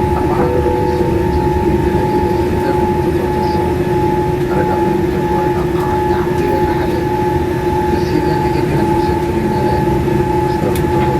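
Steady, loud rumble of a Boeing 787-8 airliner heard from inside the cabin, with two constant whining tones running through it.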